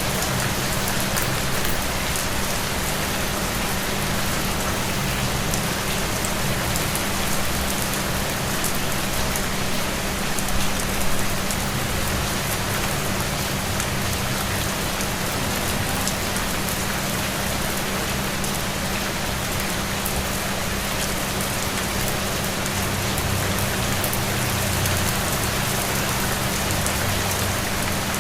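Steady rain falling: an even hiss of drops on surfaces, with a low steady hum underneath and a couple of slightly louder spatters about ten seconds in.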